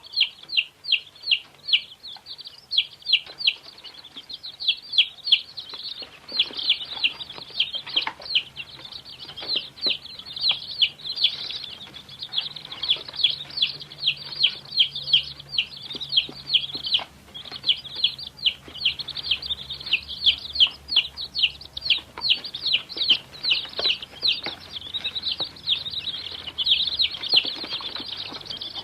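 Baby chicks peeping continuously: many rapid, high-pitched peeps overlapping, several a second.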